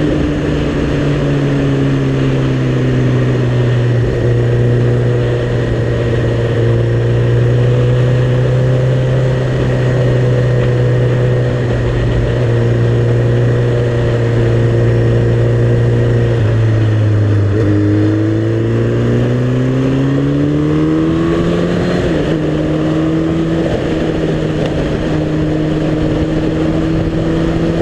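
Suzuki GSX-R motorcycle's inline-four engine running while riding, holding a steady pitch, dropping off about two-thirds of the way in, then rising as the bike accelerates, with a gear change near the end of the rise.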